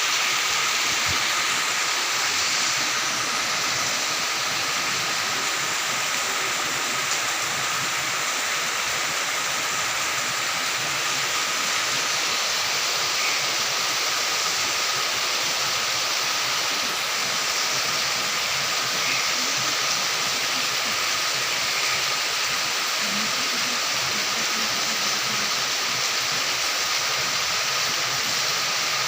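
Steady rain falling in a forest, an even hiss that holds at one level throughout.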